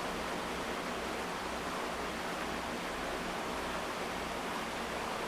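Steady, even hiss of background noise with a faint low hum underneath, unchanging throughout.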